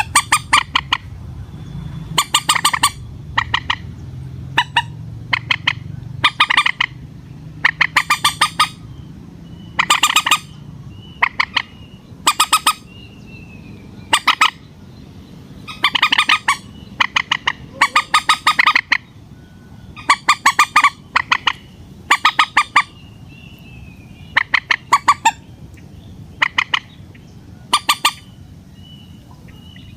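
Common moorhen (mandar batu) calling over and over in harsh, rapid-pulsed squawking bursts, about one burst every second or two, with faint thin high calls in between.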